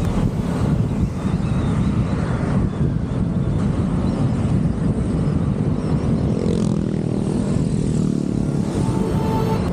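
Motorcycle engine running while riding on the road.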